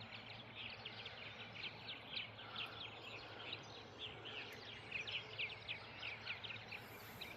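Birds chirping, faint, in a rapid run of short high chirps over a faint steady low hum.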